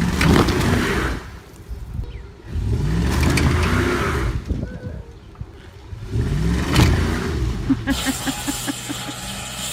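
Lifted Dodge pickup truck's engine revving hard three times, each rev rising in pitch, as the truck strains to pull a tree stump out. Near the end it gives way to a steady machine hum with a quick run of regular ticks.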